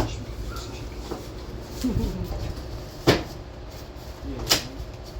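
Three sharp knocks or clacks, one right at the start and two more later about a second and a half apart, with faint voices in the background.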